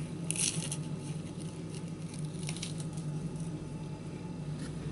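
Chewing a mouthful of puffed rice cake: a few soft crunches, the clearest about half a second in and again about two and a half seconds in, over a steady low hum.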